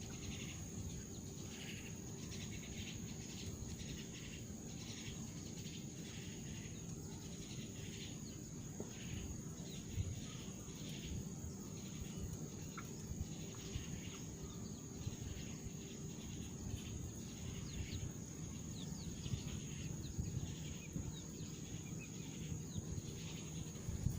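Insects chirping in a steady, pulsing chorus, with repeated short chirps over a continuous high-pitched drone. A low, even rumble runs underneath.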